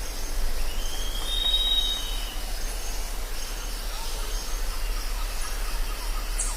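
Jungle ambience: a steady high chorus of insects over a low hum, with one whistled bird call about a second in.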